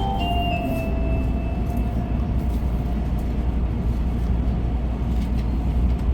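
Steady low rumble of a Shinkansen train running, heard inside the passenger cabin. The last notes of the onboard chime melody fade out over the first second or two.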